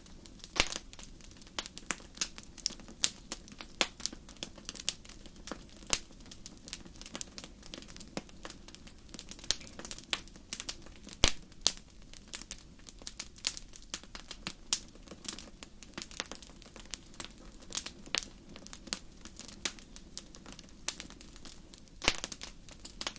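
Wood fire in a fireplace crackling: irregular sharp pops and snaps, several a second, over a faint steady low hum.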